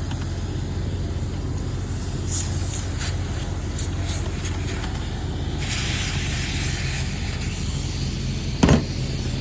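Residual refrigerant hissing out for a little over a second as a line connection on the pumped-down mini-split is opened, with a few light clicks before it and one thump near the end. A steady low hum runs underneath.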